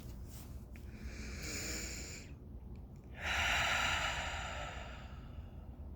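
A woman breathing audibly close to the microphone: two slow, airy breaths, the second louder and longer, fading away.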